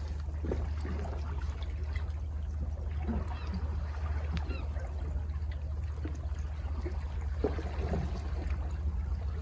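Calm sea water lapping and trickling against cliff rocks, with many small splashes over a steady low rumble.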